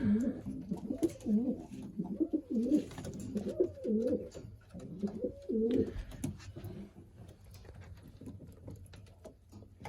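Racing pigeons cooing in a small loft, with repeated rolling coos through the first six seconds that fade to fainter cooing afterward, and light scattered clicks throughout.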